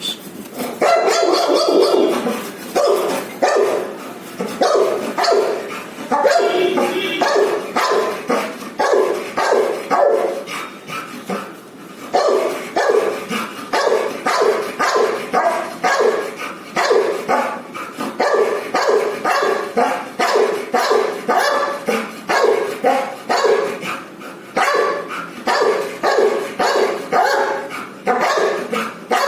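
An animal calling over and over in short, loud, pitched calls, about two a second, with a brief let-up near the middle.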